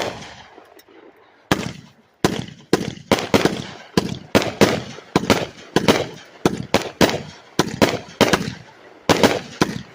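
36-shot consumer firework cake firing: a rapid run of sharp reports, about two to three a second after a slower start, each fading out quickly.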